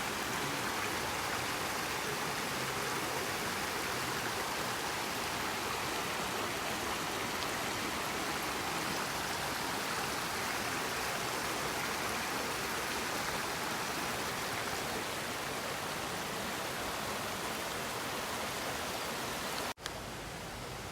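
Steady rushing of water, an even noise without breaks. It drops out for an instant near the end and resumes slightly quieter.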